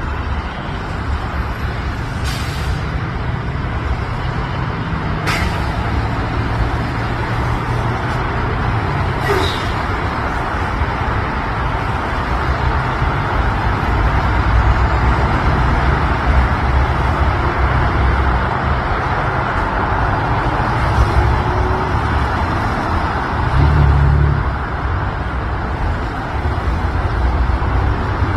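Steady rumble of road vehicles running nearby, with three brief sharp sounds in the first ten seconds.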